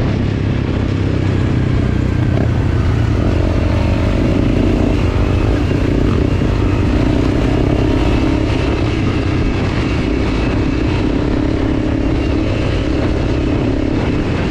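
Enduro motorcycle engine running steadily under way on a trail ride, with wind and road noise.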